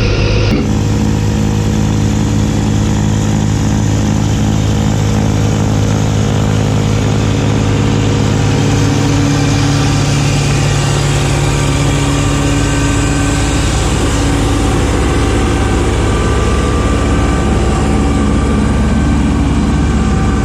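Kubota B2601 compact tractor's diesel engine running steadily with its front-mounted B2782B snowblower, the engine note shifting about half a second in.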